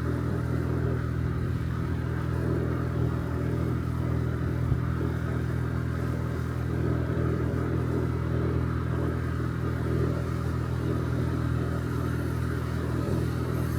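Honda Dio Cesta AF68 50cc four-stroke scooter engine running steadily at an even cruising pace while riding, with a constant drone and no change in pitch.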